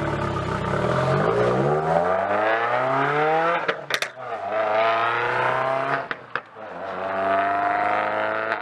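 Subaru WRX 2.0-litre turbocharged flat-four accelerating hard away through the gears. The engine note rises steadily, drops at two gear changes, then climbs again, with brief sharp pops at each shift.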